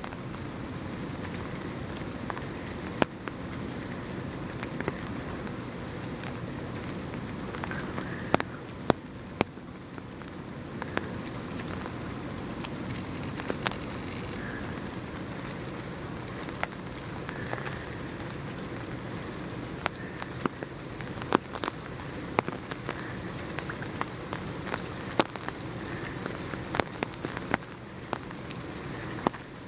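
Steady rain falling on surfaces, with scattered single drops hitting close by as sharp, irregular taps.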